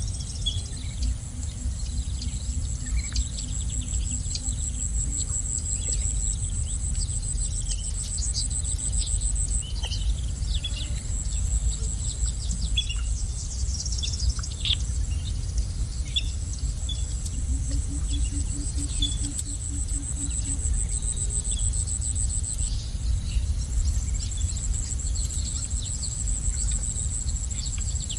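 A cricket-like insect trilling steadily at a high pitch, stopping briefly about a third of the way in and again about four-fifths of the way in, while small birds give short, scattered chirps. A steady low rumble runs underneath, and a low pulsing buzz comes in twice, near the start and about two-thirds of the way in.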